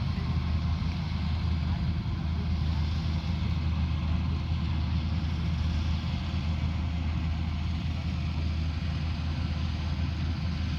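Rice combine harvester running steadily under load: a constant low engine drone with an even mechanical rushing noise over it.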